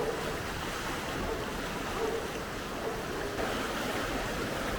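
Fast-flowing river rushing steadily, a constant even roar of water.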